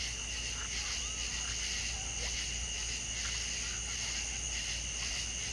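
Chorus of insects, a steady high trilling that pulses evenly, with a few faint bird chirps over it.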